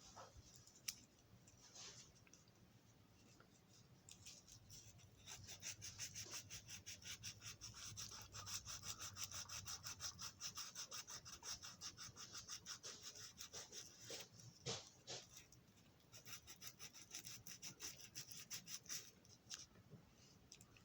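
Small piece of sandpaper rubbed quickly back and forth by hand on a toy locomotive's metal wheels, a fast, even run of light scratchy strokes that starts about five seconds in and stops near the end, polishing off leftover oil and grime.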